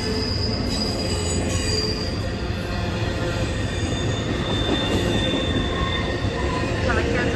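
A train rolling past on steel rails: a steady low rumble with thin, high-pitched squeals from the wheels.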